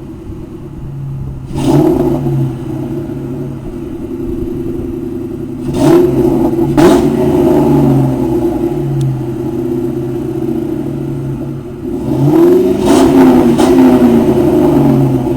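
1996 Ford Mustang GT's 4.6-litre V8 through Flowmaster Super 44 mufflers, idling steadily and revved up several times. The revs come about a second and a half in, twice around six to seven seconds in, and as a longer rise and fall near the end.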